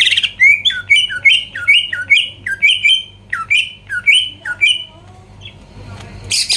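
Greater green leafbird (cucak ijo) in full song: a run of quick, repeated, sharply bending whistled notes, about three a second. After a pause of about a second and a half, a rapid rattling trill starts near the end.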